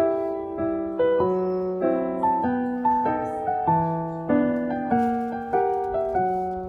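Background music: a gentle piano melody with chords, notes struck and left to die away, a few every second.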